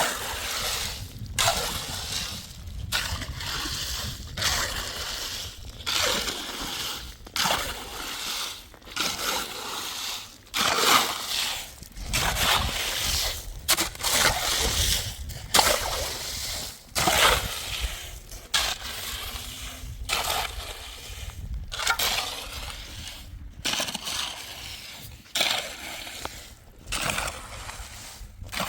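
Water sloshing and splashing in repeated strokes, about one every second or so, each followed by a brief pause.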